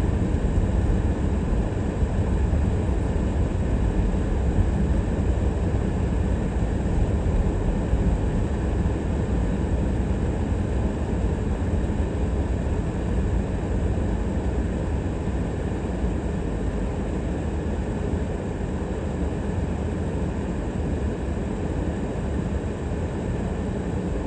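Steady low rumble of a car driving: tyre and engine noise with no distinct events, easing slightly toward the end.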